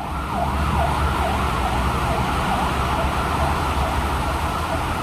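Fire engine siren in a fast yelp, its pitch sweeping down and back up about twice a second over a low engine rumble.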